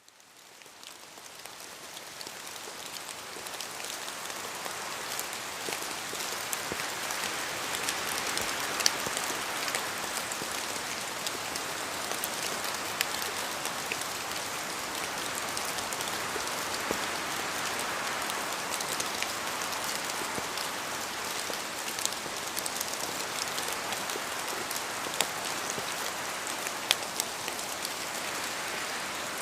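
Steady rain falling, a dense even hiss with single drops ticking through it; it fades in over the first few seconds, then holds level.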